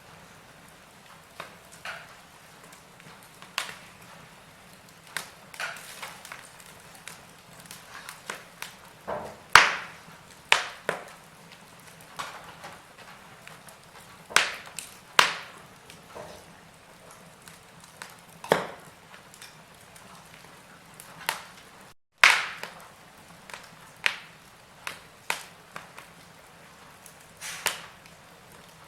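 Logs burning in a fireplace, crackling with irregular sharp pops over a faint steady hiss. The biggest pops come about ten seconds in and again a little past twenty-two seconds, just after a momentary dropout.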